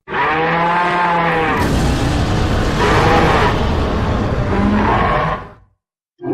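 Monster roar sound effect: one long roar of about five seconds that opens with a pitched, wavering cry, turns rough and fades out, and a second short call starts right at the end.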